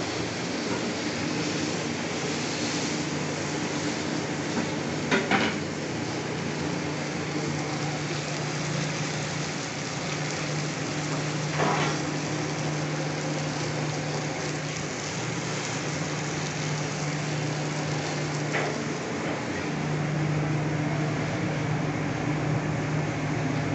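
Chicken breast sizzling in a ridged grill pan over a gas flame, with a steady low hum underneath and three short clicks of metal tongs against the pan. Near the end, a spatula stirs and scrapes mashed potato in a frying pan.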